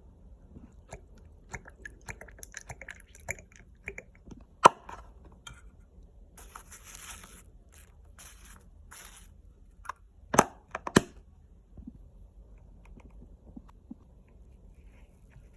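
Crunchy chewing and biting, with sharp clicks scattered through it, the loudest about a third of the way in and a cluster of them about two-thirds in.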